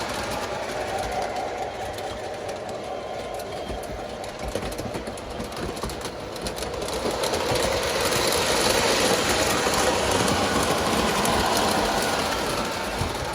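A model train running on its layout track: a small electric motor whirring with a steady clatter of wheels on rail. It gets louder from about seven seconds in.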